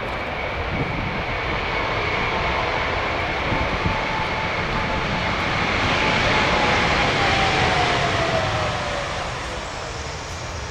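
Arriving Airbus A220-100 jet airliner passing by, its Pratt & Whitney geared turbofan engines growing louder to a peak about six to eight seconds in. An engine whine drops in pitch as it goes past.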